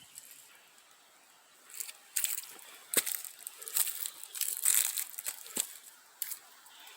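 Dry leaves and twigs crunching underfoot in irregular steps, with a few sharp snaps of twigs; fairly quiet for the first second and a half.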